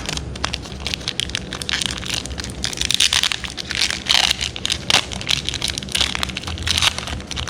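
Foil wrapper of a Magic: The Gathering booster pack being torn open and crinkled by hand: a dense run of crackles and sharp rustles.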